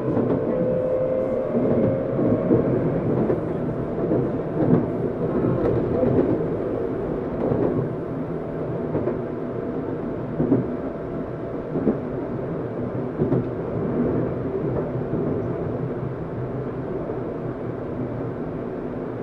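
Running sound inside a Tokyu 7700 series motor car between stations: continuous wheel-on-rail rumble with a steady motor tone. A rising tone carries into the first moment, and there are a few short clacks, the loudest about five seconds in and again around ten to thirteen seconds.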